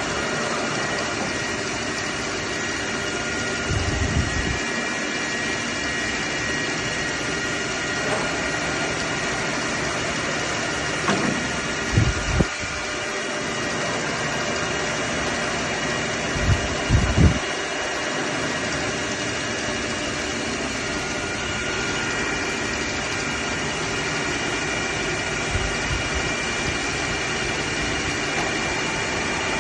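Large Arno milling machine running under power: a steady machine hum carrying several steady whining tones, with a few brief low thumps along the way.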